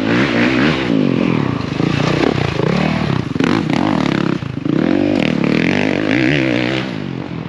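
Dirt bike engine revving up and down hard as it is ridden around a motocross track, its pitch rising and falling repeatedly with a short throttle chop about four and a half seconds in, over a rattle of chassis and dirt noise.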